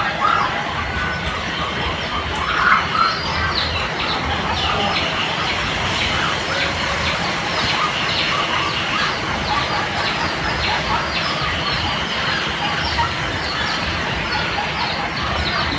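Birds chirping and clucking in a dense run of quick, high calls over a steady background hiss.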